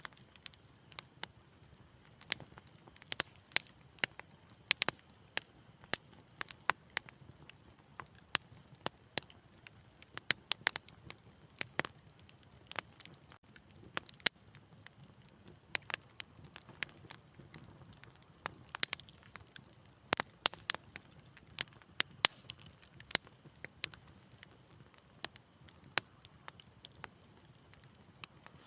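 Wood fire crackling in a fireplace: irregular sharp pops and snaps, several a second, over a faint steady low background.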